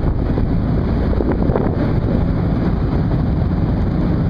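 Ship's machinery running with a steady, loud low rumble, mixed with wind on the microphone.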